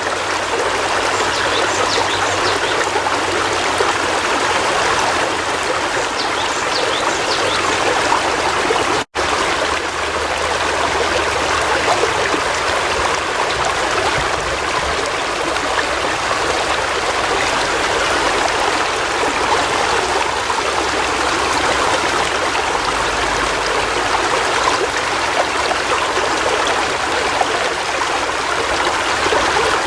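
River water flowing and splashing in a steady rush, with a momentary break in the sound about nine seconds in.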